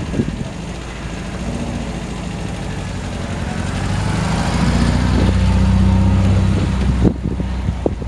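A car's engine running at low revs, growing steadily louder over several seconds as it comes close, with a sharp click about seven seconds in.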